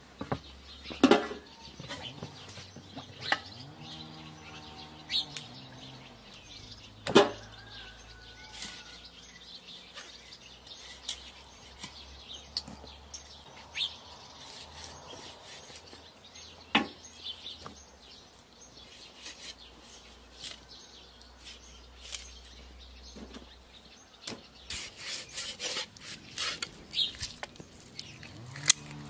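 Scattered sharp knocks and clatters, the loudest about a second in and again about seven seconds in, with a cluster of quicker ones near the end, over a faint low hum and faint bird chirps.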